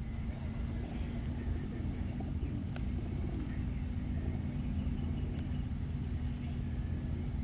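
Steady low rumble of outdoor background noise with faint bird calls now and then, and a single sharp click about three seconds in.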